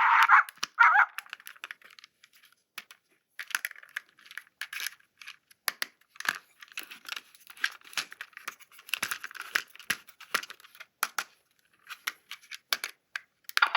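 Toy packaging being torn open and crinkled by hand, with irregular sharp clicks and crackles of plastic being handled.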